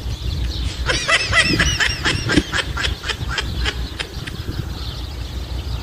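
Small birds calling in a quick run of high, arching chirps for about three seconds, over strong wind rumbling on the microphone.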